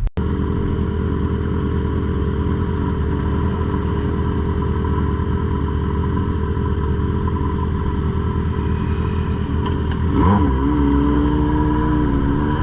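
Motorcycle engine running steadily, with a steady tone throughout; about ten seconds in the revs rise quickly and hold higher, climbing a little again near the end.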